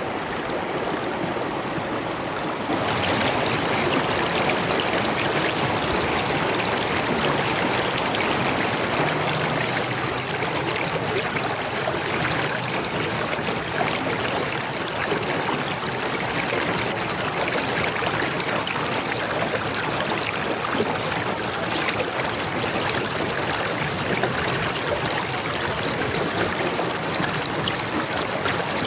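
Running water flowing steadily, an even rushing wash with no other sounds, a little louder and fuller from about three seconds in.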